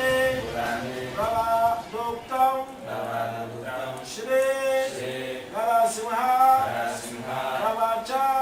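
Sanskrit mantras chanted in a sung, melodic recitation, the kind of chanting that ends in 'svaha' as each offering is made into a yajna fire.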